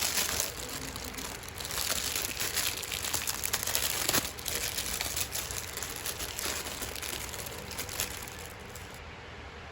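Crinkling and crackling of something like plastic or paper packaging being handled, busiest in the first few seconds and easing off near the end.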